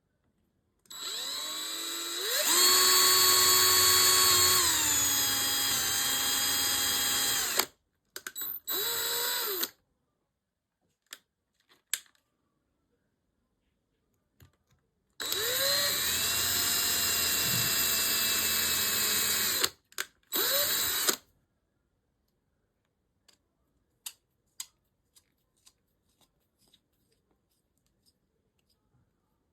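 Small handheld power tool run twice for several seconds at a time. Each run spins up with a rising whine, then drops in pitch partway through, and ends with a couple of short on-off blips. Faint light clicks of handling follow.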